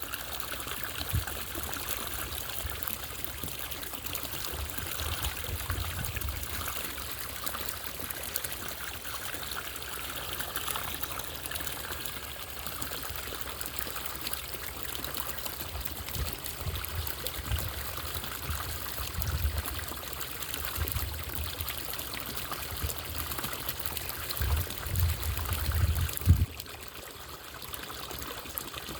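Small solar-powered garden fountain trickling and splashing steadily, with occasional low rumbles. There is a sharp bump a few seconds before the end, after which the water sounds quieter.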